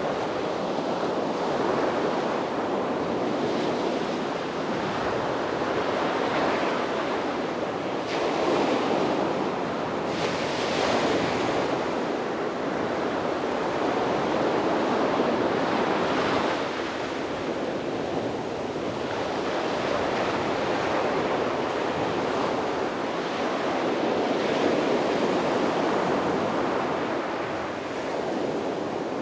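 Sea waves breaking and washing onto a beach, a continuous surf that swells and eases every few seconds, with wind buffeting the microphone.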